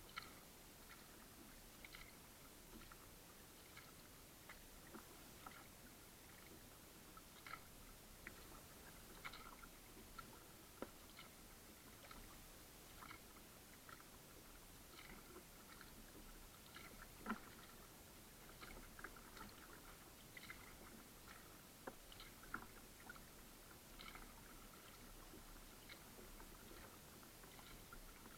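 Faint kayak paddling: small splashes, drips and light knocks of the paddle and water against the hull every second or two, over a quiet hiss.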